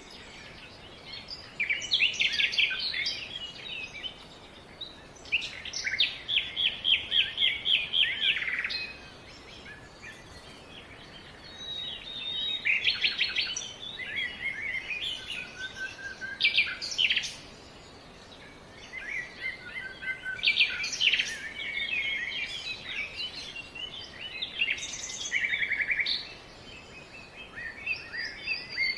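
Several songbirds singing in bursts of fast trills and chirps, each burst lasting a few seconds with short pauses between, over a faint steady background hiss.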